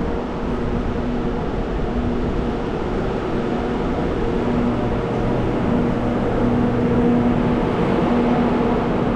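SRT KTX-Sancheon high-speed electric train at the platform: a steady rumbling run of machinery noise with a low hum that breaks off and returns every second or so, and a deeper hum joining about halfway through.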